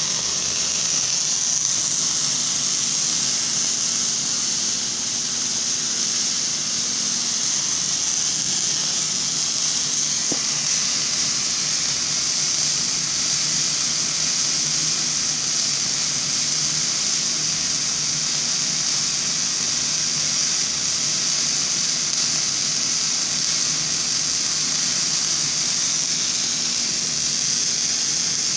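Semi-automatic MIG welding arc running steadily on an automatic hardfacing rig, a continuous even hiss with a faint low hum under it.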